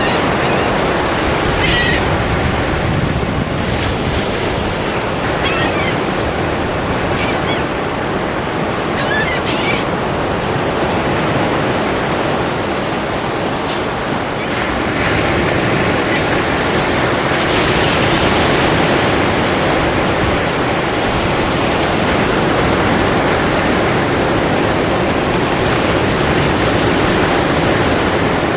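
Ocean surf washing steadily, swelling a little about halfway through as a wave breaks. A few faint high chirps sound in the first ten seconds.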